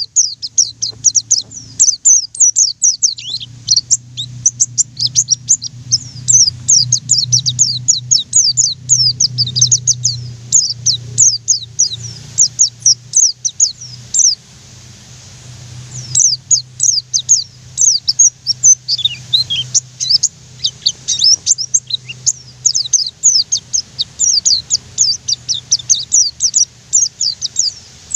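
White-eye (pleci) singing a fast, continuous run of high, downward-slurred chirps. It breaks off for about a second and a half midway, then resumes just as densely.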